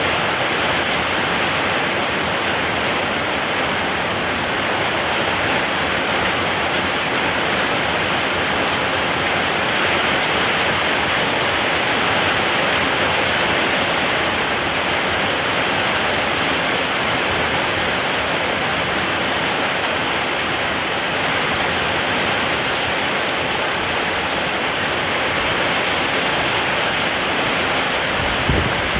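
Steady rain falling, a dense even hiss with no single drops standing out. A brief low thump sounds near the end.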